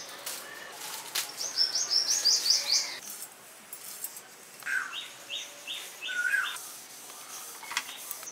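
Small birds chirping: a quick run of high, rapidly repeated chirps about two seconds in, then a series of about six short, evenly spaced notes a few seconds later. A few faint knocks sound in between.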